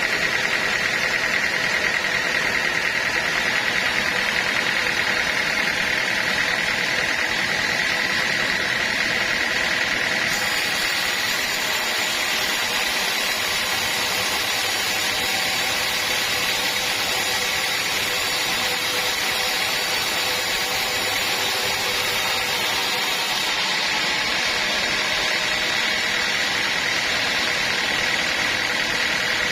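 Sawmill machinery running steadily: a constant mechanical drone with a high whine. The upper hiss grows brighter about ten seconds in and drops back near the end.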